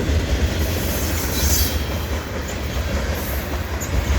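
Manifest freight train's cars rolling past close by: a steady heavy rumble of wheels on rail with some high-pitched wheel noise.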